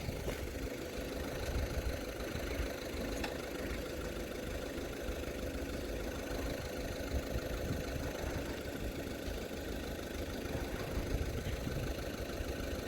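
An engine idling steadily, with a low rumble under it and one faint click about three seconds in.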